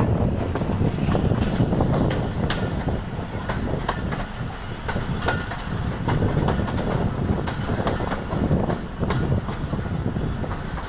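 Passenger train coach rolling along the track as it pulls into a station, heard from an open window: a steady low rumble from the wheels, with scattered clicks and knocks from the rails.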